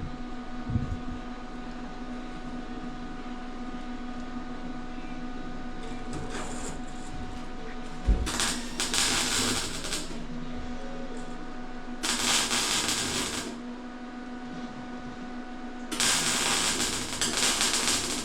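A steady machine hum, with three bursts of harsh hissing noise of about one and a half to three seconds each, the first just after a single knock.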